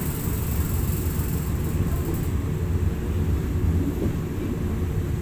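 Wind rushing past the open window of a moving passenger train and buffeting the microphone, over the steady running noise of the carriage on the rails.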